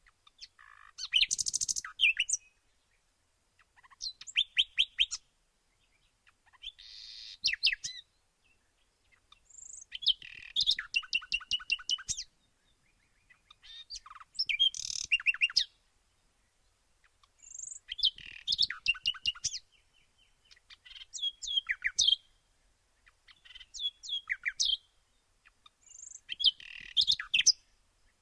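Songbird singing: a phrase of rapid, sharp chirps about two seconds long, repeated every three to four seconds with quiet gaps between. A short, high single note falls in a few of the gaps.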